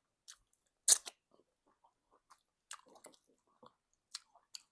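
Close-miked mouth sounds of someone eating egusi soup with semolina: irregular wet smacks and clicks of chewing, the loudest about a second in.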